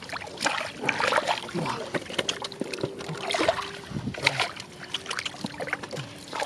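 Irregular splashing and sloshing in shallow muddy water as fish are grabbed by hand.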